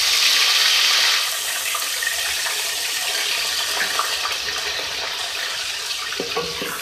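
Wet onion, ginger and garlic paste hitting hot oil in an aluminium pot: a loud sizzle, strongest for about the first second, then settling into a steady frying hiss. A few light knocks come from a wooden spoon stirring it.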